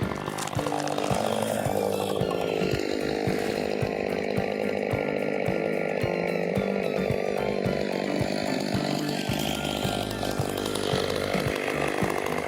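Chainsaw running steadily as it cuts wood, its engine note shifting now and then.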